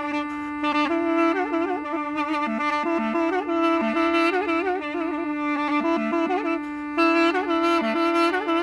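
Duduk in A playing an ornamented melody, with quick turns between notes, over a steady held drone note.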